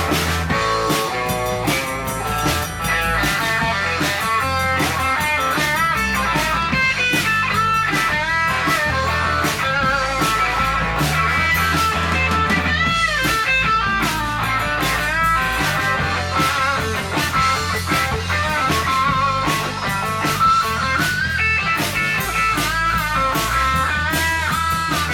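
A live band plays an instrumental break of a rock-style gospel song: a lead guitar plays a solo of bending notes over bass and a steady drum beat.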